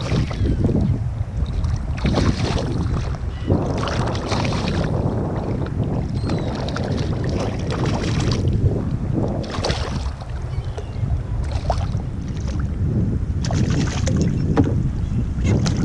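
Water sloshing and splashing against a kayak, in irregular bursts every second or two, over a steady low rumble of wind on the microphone.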